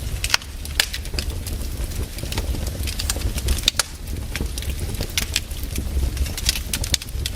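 Wood fire burning, with a steady low rumble and irregular crackles and pops of burning logs.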